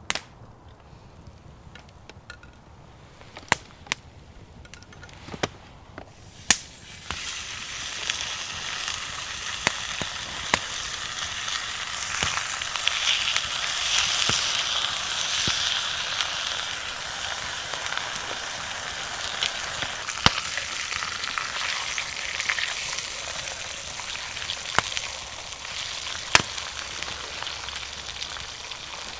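A few sharp clicks, then a steady sizzle that starts abruptly about seven seconds in: steak frying over a campfire.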